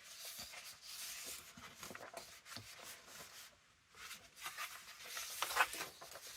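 Sheets of paper rustling and sliding against each other as they are handled and flipped through, with a short pause a little past the middle and a louder rustle near the end.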